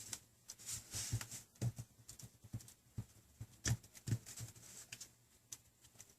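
Irregular small clicks and taps of hands and a small tool working on a tablet's plastic housing, a few per second, with two louder clicks in the middle.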